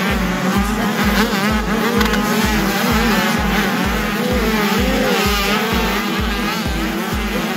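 Two-stroke 85cc motocross bike engines buzzing and revving up and down, over music with a steady thumping beat.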